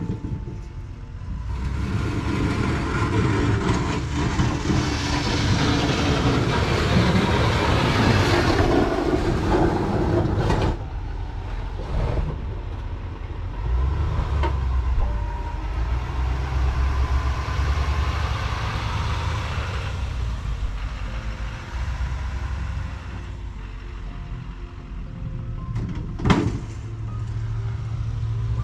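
Engine of a snow-clearing vehicle running under load, a steady low rumble, with a louder, rougher stretch in the first third. Two sharp knocks, one near the middle and one near the end.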